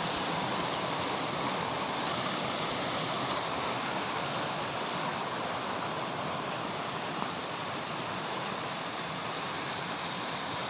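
Steady rush of a fast-flowing mountain stream, an even wash of water noise with no change.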